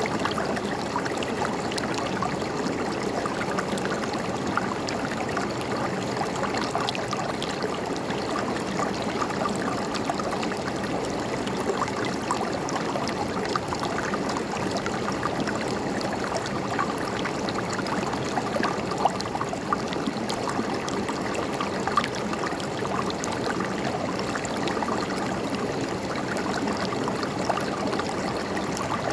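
River water flowing and babbling over rocks, a steady rushing with many small splashes and gurgles throughout.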